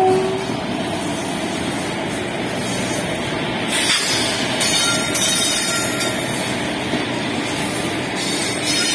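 Freight train hauled by several WAG-7 electric locomotives passing close by: a steady rumble and clatter of bogies and wagon wheels on the track. The tail of a two-tone horn blast cuts off just at the start, and a faint high wheel squeal comes in about halfway through.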